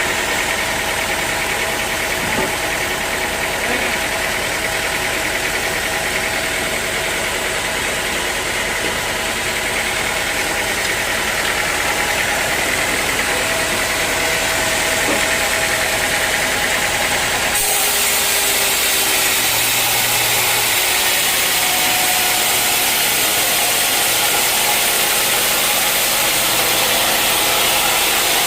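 Sawmill machinery running steadily, with an engine-like hum. The sound shifts abruptly about eighteen seconds in, losing its low rumble and turning hissier.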